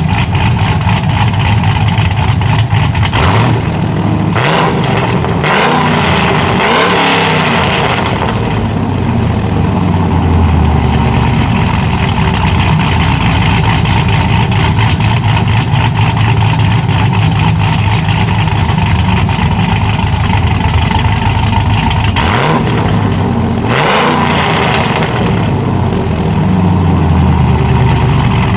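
Cammed 2006 Chevrolet SSR's 6.0-litre LS2 V8 idling, revved in several quick blips a few seconds in and twice more near the end.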